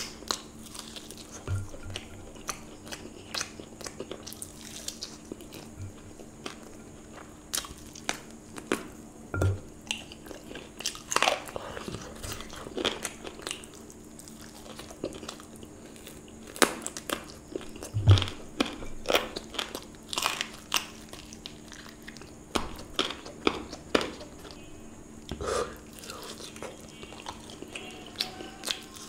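Close-up eating sounds of biting into and chewing a fried chicken leg: irregular crunches and sharp clicks throughout, loudest around the middle, over a faint steady hum.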